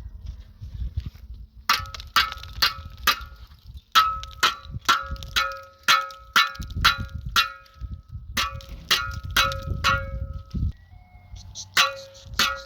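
A metal object struck again and again, about two blows a second with two short pauses. Each blow rings briefly at the same two pitches, like hammering on metal.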